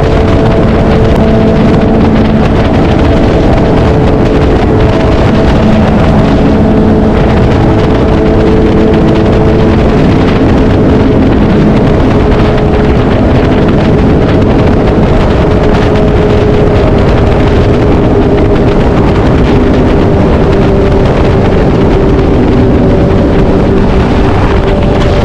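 BMW S1000RR inline-four engine running at a steady highway cruise, its note shifting only slightly in pitch, buried in heavy wind noise on the microphone.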